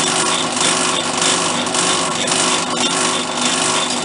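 A workshop power tool or machine tool running steadily while cutting metal: a continuous motor hum under a noisy cutting sound.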